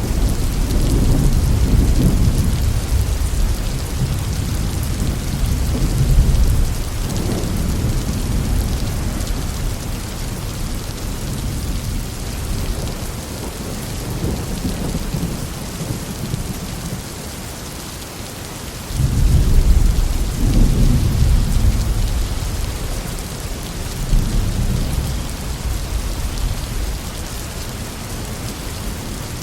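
Heavy rain falling steadily, with rolling thunder: a long rumble at the start, and a second, louder peal breaking suddenly about two-thirds of the way in and rumbling away over several seconds.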